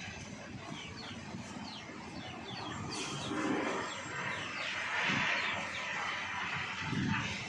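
Small birds chirping again and again in short, quick, falling notes, over a background hiss that swells about four to six seconds in.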